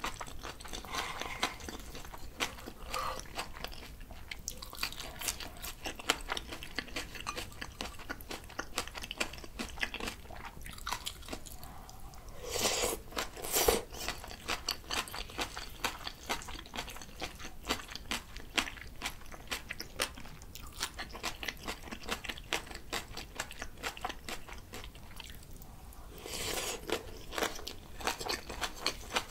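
Close-miked chewing of bibimbap mixed with crunchy raw radish salad and spring cabbage kimchi: a steady run of fine, crisp crunches and wet chewing. Two louder spells of scraping and clinking come about halfway through and again near the end, as the spoon scoops more from the bowl.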